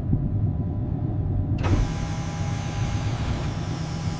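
Steady low drone of heavy machinery running. About one and a half seconds in, a hiss and a thin, steady higher whine join it.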